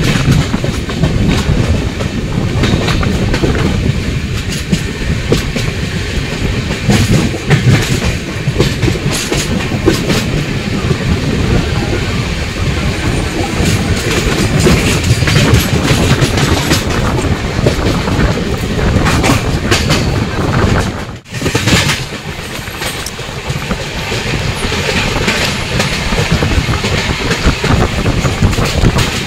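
Express passenger train running at speed: steady rumble with wheels clattering over the rail joints, dipping briefly about three quarters of the way through.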